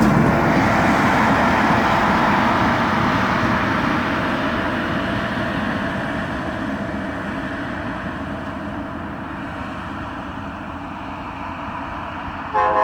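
Passenger train led by an Alco RS-36 diesel locomotive rolling past, its wheel-on-rail rumble fading steadily as it moves away. Near the end, a short horn note begins.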